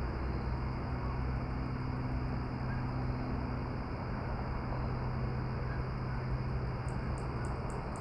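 Steady outdoor evening ambience with a low, even hum underneath. About seven seconds in, an insect starts a high, rhythmic chirping at about four chirps a second.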